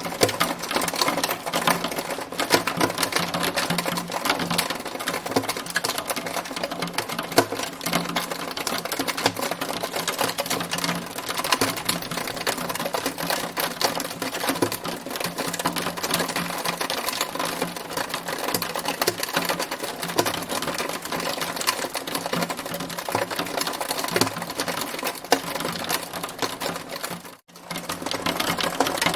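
Hail falling, a dense, continuous clatter of countless small impacts. It breaks off for a split second near the end, then resumes.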